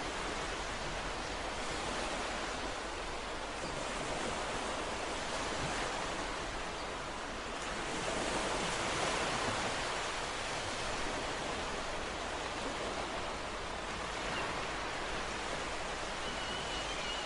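Ocean surf washing in, a steady hiss of breaking waves that swells slowly, with a fuller wash about eight to ten seconds in.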